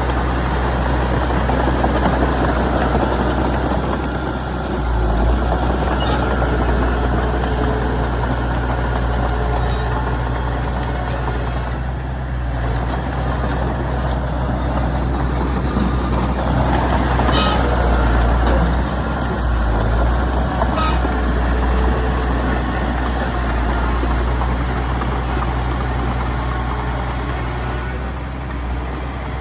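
Heavy diesel engine of earth-moving machinery running steadily with a low, even hum, with a few sharp metallic clanks along the way.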